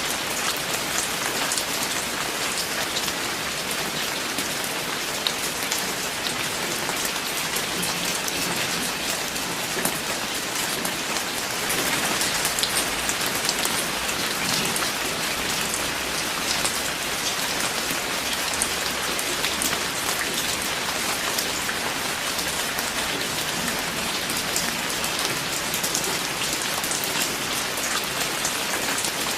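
Steady rain falling on a surface, a dense patter of individual drops with a continuous hiss, growing slightly heavier about twelve seconds in.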